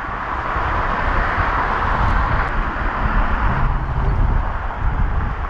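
A vehicle engine running steadily under a rushing noise that eases off about three and a half seconds in.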